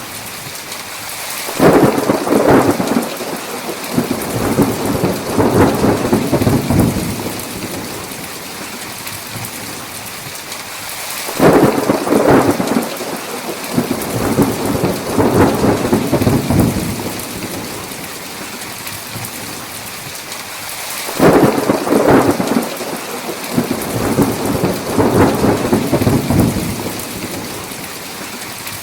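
Thunderstorm: steady heavy rain with three claps of thunder about ten seconds apart, each opening with a sharp crack and rumbling on for about five seconds.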